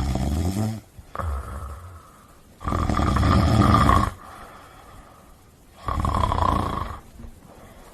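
A dog snoring: four rasping breaths with pauses between them. The longest and loudest lasts about a second and a half, near the middle.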